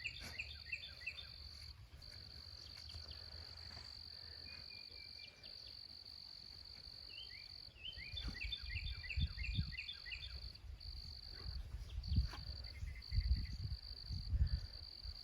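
Steady high-pitched insect trill that breaks off briefly every few seconds, with runs of quick repeated chirps near the start and again about eight seconds in. From about eight seconds on, low rumbling bursts on the microphone.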